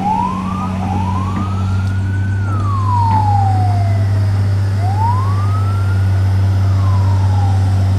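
A vehicle siren wailing, its pitch rising and falling slowly about every four seconds, over a steady low hum.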